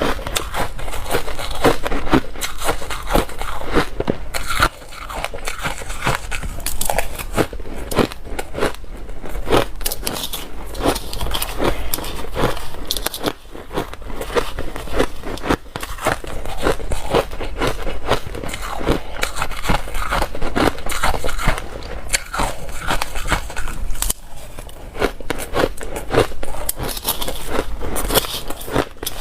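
Close-miked biting and chewing of hard, dry ice, a dense run of crunches and cracks.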